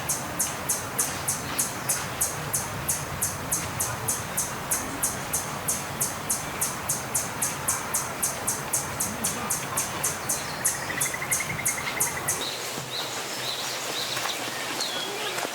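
A forest animal calling a long, even series of high, thin chirps, about three or four a second, that stops abruptly near the end, with a short trill just before it stops. Under it runs a steady rush of wind through the forest.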